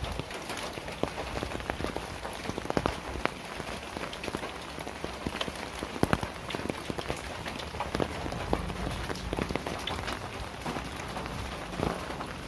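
Heavy rain falling steadily, with many sharp taps of drops striking close by.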